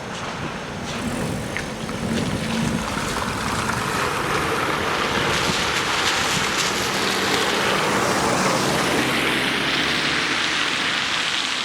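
VR Intercity train passing at speed: a loud, steady rush of wheels on rail that builds over the first few seconds, with a low hum from the train underneath.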